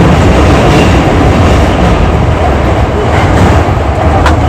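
Hankyu 8300 series electric train running through the Sakaisuji Line subway tunnel, heard from inside the car: a loud, steady rumble of wheels on rail. A single sharp click comes near the end.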